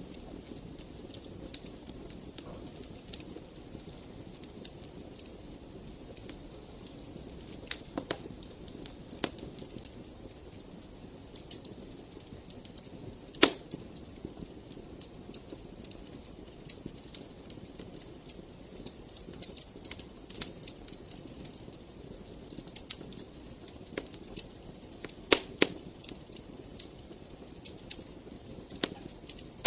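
Wood fire crackling: a steady low hiss broken by irregular sharp snaps and pops, with a loud pop about halfway through and another near the end.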